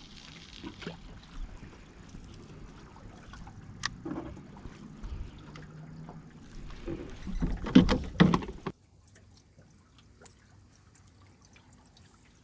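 Water trickling and sloshing around a small boat, with scattered knocks of gear being handled and a louder clatter with splashing about eight seconds in, after which it suddenly goes much quieter.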